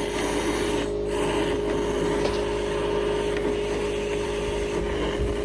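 Motor-driven dryer vent cleaning equipment running steadily: a constant motor hum under an even hiss of moving air.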